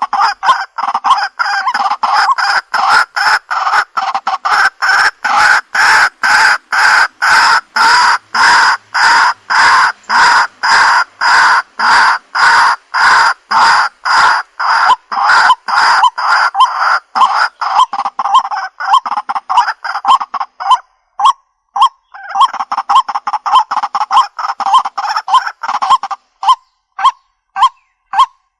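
White-breasted waterhen calling: a harsh, honking note repeated about twice a second, with a brief pause about two-thirds of the way through. Near the end the calls thin out into shorter, spaced clucks.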